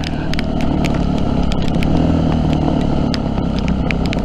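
Yamaha WR250F dirt bike's single-cylinder four-stroke engine running at a fairly steady speed, with many short, sharp clicks and knocks scattered throughout.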